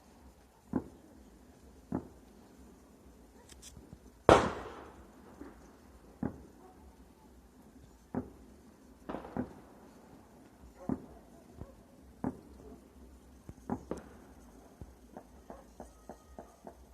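Scattered distant bangs of celebratory firecrackers and gunfire, a sharp report every second or two. One much louder bang comes about four seconds in and echoes away, and a quick string of smaller pops follows near the end.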